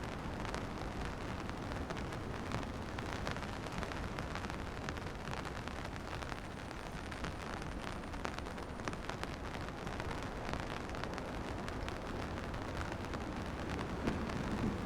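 Steady rain with many drops tapping close by, over an even rushing hiss.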